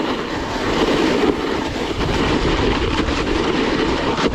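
Snowboard running over snow: a steady, rough rushing and scraping noise.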